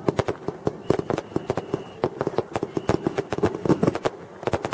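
Fireworks crackling: a rapid, irregular string of sharp pops, several a second, continuing throughout.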